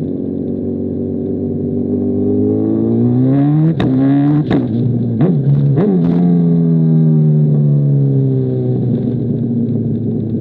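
Honda CBR1000RR inline-four through an SC Project CR-T exhaust, accelerating hard. It shifts up through four gears in quick succession, each shift a sharp crack with a drop in revs. The bike then cruises, its revs slowly falling.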